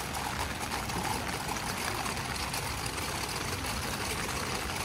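Steady rain falling and running off wet pavement, an even hiss with trickling water.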